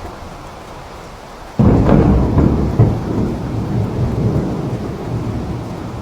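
Rain falling steadily, then a loud clap of thunder breaks about one and a half seconds in and rolls on, slowly fading.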